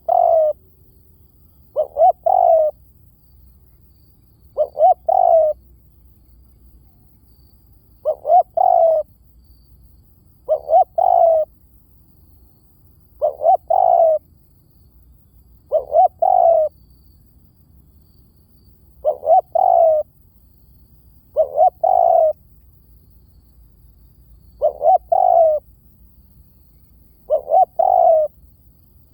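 Spotted dove cooing, a short phrase of two or three quick notes repeated about every two and a half to three seconds, eleven times. This is the male's call used as a decoy (lure) call to draw in other doves.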